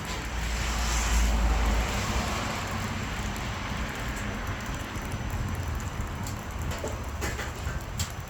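Oak firewood burning in a barbecue smoker, a steady hiss with a few sharp crackles near the end. A low wind rumble on the microphone fills the first two seconds.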